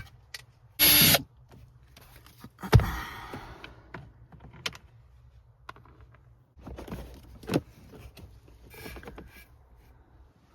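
Hands working on a car's interior trim and speaker, unscrewing and unclipping them: a short loud burst about a second in, a sharp knock with a brief rattle just under 3 s in, then scattered plastic clicks and small knocks.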